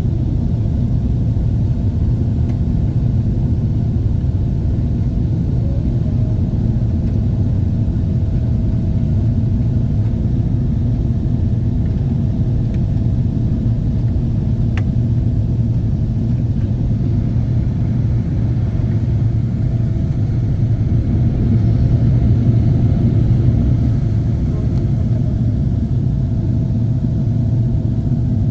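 Steady, loud low rumble of a Boeing 777-300 airliner as heard inside its economy cabin: engine and airflow noise with a faint steady hum above it, swelling slightly about three quarters of the way through.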